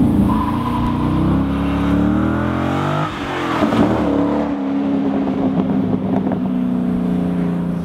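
2005 Chevrolet Corvette C6's 6.0-litre LS2 V8 through a Borla aftermarket exhaust, pulling hard with its pitch climbing. About three seconds in the pitch drops sharply, and the exhaust note then holds fairly steady.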